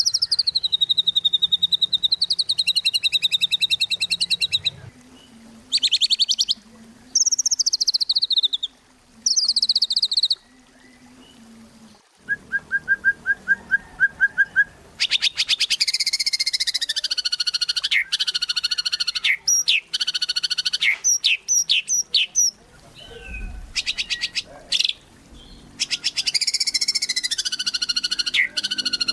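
White-rumped shama singing a varied song of fast buzzy rattling phrases, interrupted by short falling whistled notes and a brief rapid trill about halfway through.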